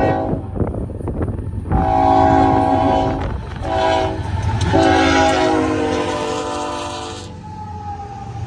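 Locomotive air horn sounding a chord in a grade-crossing pattern: a long blast, a short one, then a final long one that drops in pitch as the locomotive passes. A steady low rumble of the moving train runs underneath and carries on after the horn stops near the end.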